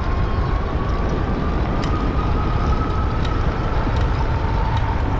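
Wind rushing over the microphone of an electric bike moving at about 20 mph without pedalling, with the thin, steady whine of its electric motor above the rush that drops slightly in pitch near the end. A few faint clicks.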